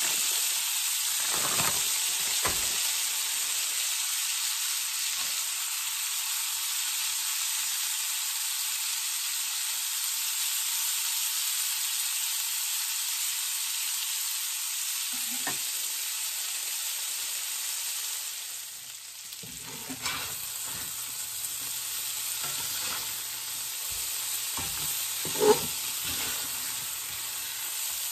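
Frozen corn, okra and potatoes sizzling steadily in butter in a cast-iron skillet. A metal spatula scrapes and knocks against the pan now and then, with one sharp knock near the end the loudest sound.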